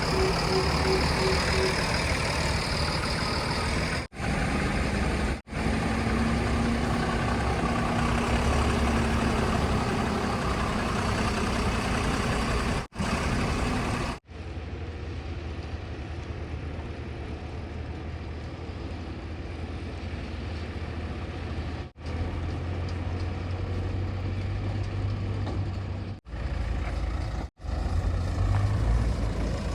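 Heavy diesel engines of earth-moving machinery and trucks running, with a brief run of evenly spaced beeps at the start. The sound breaks off abruptly several times where short clips are joined.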